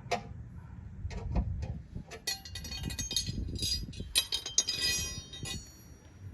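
Metal objects clinking and clattering against each other, with ringing high tones: a few sharp knocks at first, then a busy run of clinks from about two seconds in until shortly before the end.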